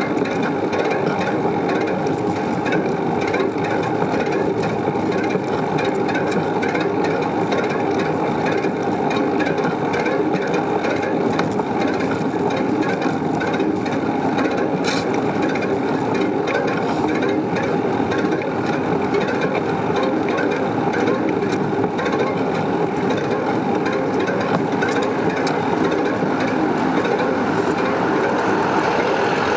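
A bicycle being ridden: steady rolling and wind noise with a dense rattle of small clicks from the bike.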